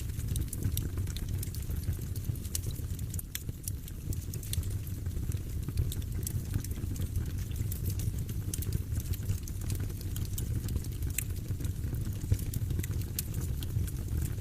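Fire burning in a fireplace, crackling with many sharp, irregular pops over a steady low rumble.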